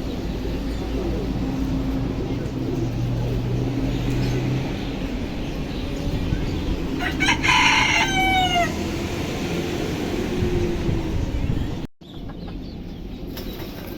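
A rooster crows once, loudly, about seven seconds in, its call ending in a falling tail, over a steady low background hum.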